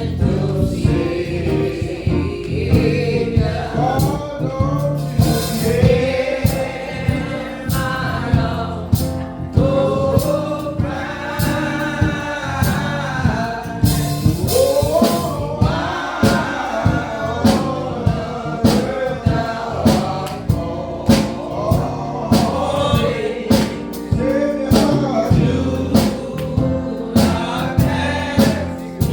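Gospel choir singing with a steady beat from the accompaniment.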